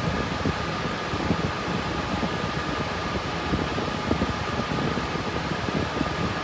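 Cooling fans of an RTX 3060 Ti GPU mining rig running steadily: an even whirring hiss with a faint, steady high whine.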